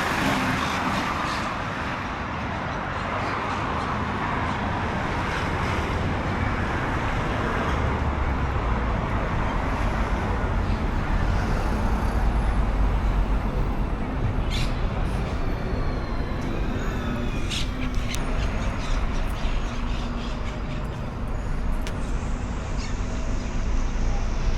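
City street ambience: steady road traffic noise with a low rumble, and a few sharp clicks in the second half.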